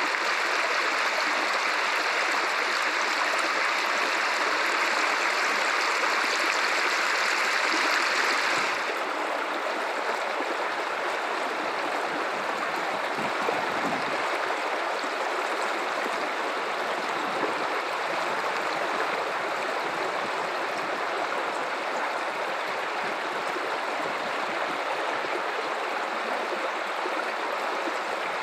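Guadalupe River running over rocks: a steady rush of flowing water. About nine seconds in, the sound turns abruptly a little softer and less hissy, then runs on steadily.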